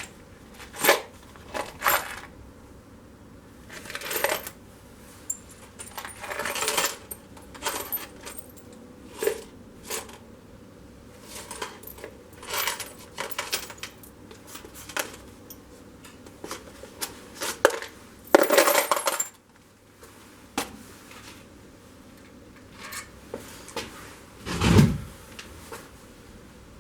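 Small steel screws and metal parts clinking and clattering as they are picked through and handled, in scattered sharp clicks with a longer rattle of metal on metal about two-thirds of the way in and a duller knock near the end.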